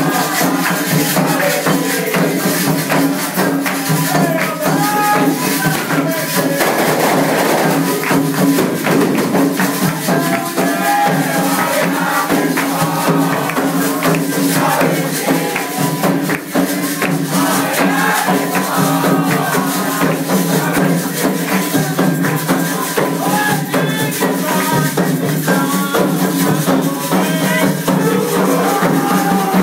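Candomblé ritual music for Xangô, played without a break: shaker-like rattles and percussion strokes with voices singing over them.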